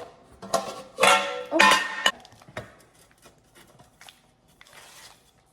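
A person's voice letting out two loud, drawn-out exclamations of 'oh' about a second in, then faint kitchen sounds with a short soft hiss near the end.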